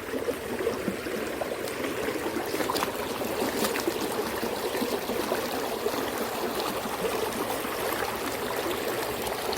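Shallow, fairly fast river current running steadily over its bed.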